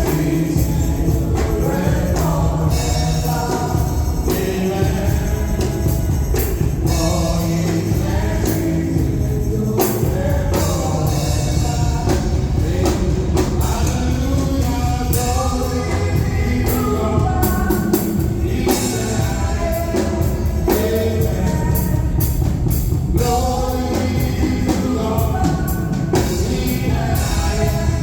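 Gospel praise and worship music: singing voices over a band with bass and drums, playing steadily.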